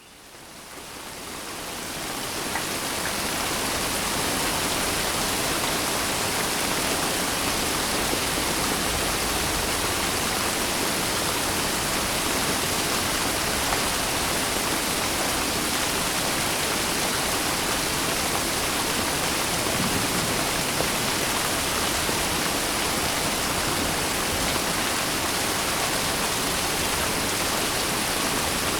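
Steady rain, a dense even hiss with no distinct drops standing out, fading in over the first few seconds and then holding level.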